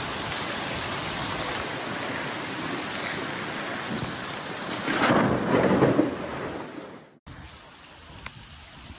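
Heavy rain pouring down in a steady hiss, with a rumble of thunder swelling about five seconds in and fading away. After a sudden cut, only light scattered drips remain.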